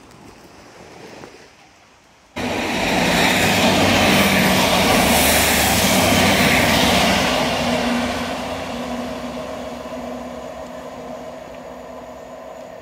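Diesel multiple-unit passenger train passing close by: a loud rush of wheels on rail and engine noise starting abruptly a couple of seconds in, then fading slowly as it pulls away, with a steady low engine hum in the later part.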